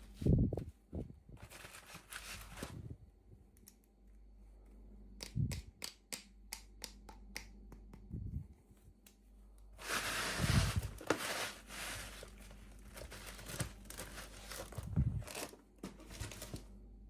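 Packaging being torn open and crinkled by hand, in several bursts of tearing and rustling, with a quick run of small clicks and taps between them.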